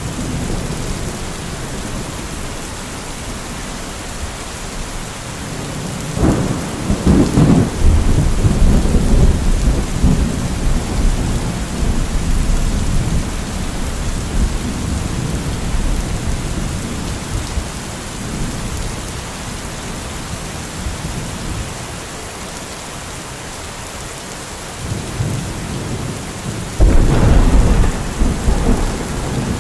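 Steady rain with thunder. About six seconds in, a thunderclap breaks out sharply and rumbles on for several seconds; a second clap comes near the end.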